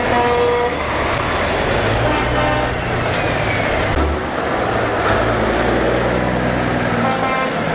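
Truck air horns sounding in short blasts: a strong one at the start, a fainter one about two seconds in and another near the end. Heavy truck diesel engines run underneath.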